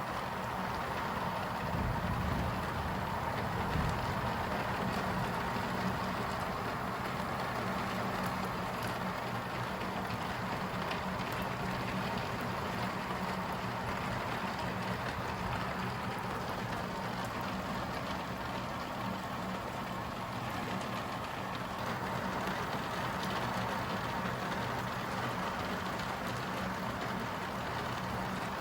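Steady thunderstorm noise of rain and wind, with a louder low rumble about two to four seconds in.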